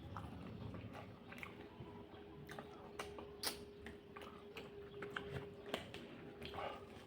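A person chewing food, with irregular small clicks and smacks of the mouth.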